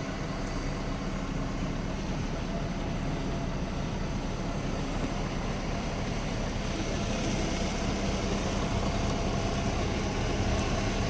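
Scania R520 tractor unit's V8 diesel engine running steadily, growing a little louder in the second half.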